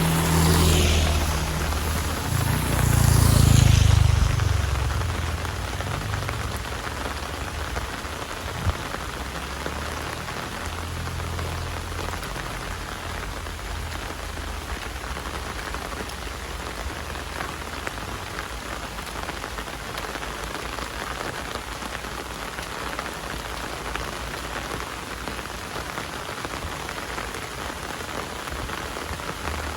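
Heavy rain falling steadily. Two louder swishes pass in the first four seconds, the second the loudest, and there is a single click near nine seconds.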